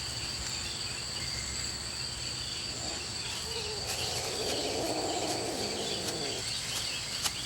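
Crickets trilling steadily at a high pitch, with a faint, noisier, lower sound rising for about three seconds in the middle.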